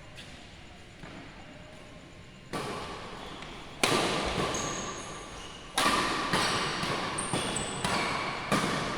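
Badminton rackets striking a shuttlecock in a rally, echoing in a large sports hall. There are two separate sharp hits at first, then quicker exchanges about every half second, with brief high squeaks of shoes on the court.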